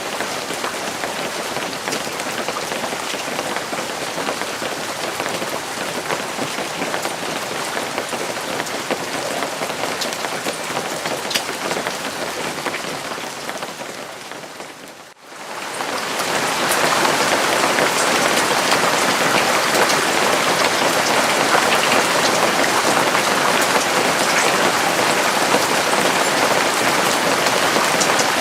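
Steady rain falling on a surface, with individual drops pattering through a dense hiss. About halfway through it fades away briefly and then comes back louder and fuller.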